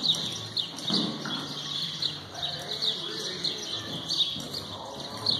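Small birds chirping over and over, high-pitched, with a few soft thuds of a horse's hooves on the arena's sand.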